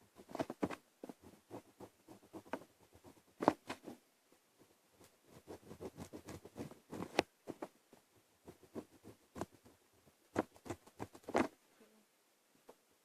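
Pen scratching on paper in short drawing strokes, broken by a few sharp clicks or taps, the loudest about three and a half seconds in.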